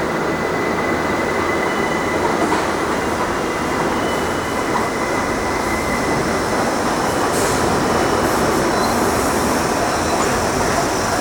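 R62A subway train running through an elevated station: a steady, loud rumble of wheels on rail, with thin, high-pitched wheel squeal over it.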